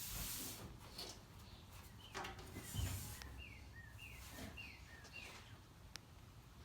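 Faint bird chirping: a quick run of about six short chirps, each falling in pitch, near the middle, over low background noise and a few soft thuds.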